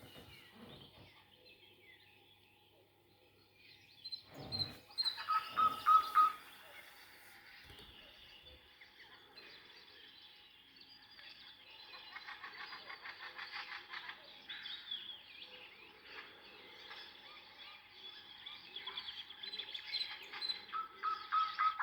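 Many forest birds singing and calling over one another, played back from a vinyl record. One bird gives a short run of repeated clear notes about five seconds in and again near the end.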